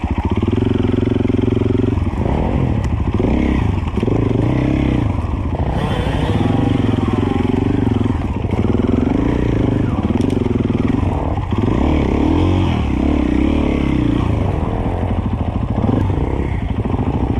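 Enduro dirt bike engine revving up and down, the throttle opened and closed every second or two in short bursts.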